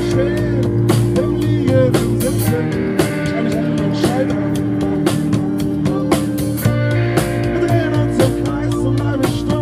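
Live rock band playing an instrumental passage: guitar over a drum kit.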